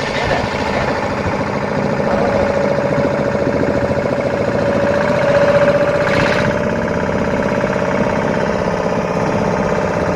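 Fishing boat's engine running steadily at low speed, with a steady droning tone that swells a little about midway.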